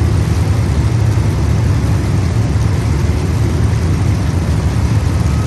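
Several race car engines idling together before the start, a steady low rumble.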